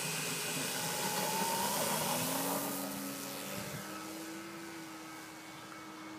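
Small propeller aircraft engine opening up for takeoff. Its pitch rises over the first few seconds, then holds steady as the sound fades away.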